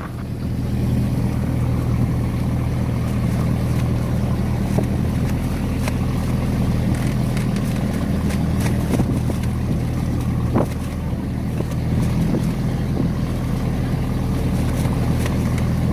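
Passenger motorboat's engine running steadily with a low drone, with a few light knocks over it.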